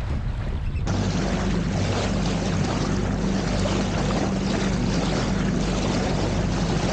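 Sailboat under way in a good breeze: a steady rush of wind and water along the hull, with a low steady hum underneath. The sound changes abruptly about a second in, as at an edit.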